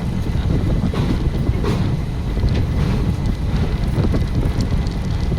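Wind buffeting the microphone over the steady low rumble of a moving passenger train.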